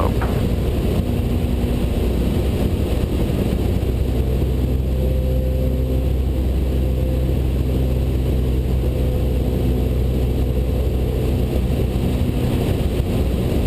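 Cessna 172 Skyhawk's four-cylinder Lycoming engine and propeller droning steadily in the cockpit at reduced approach power, with the rush of airflow over the airframe.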